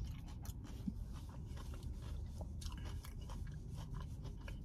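A person chewing a mouthful of coleslaw, with soft, irregular crunches and small mouth clicks over a low steady hum.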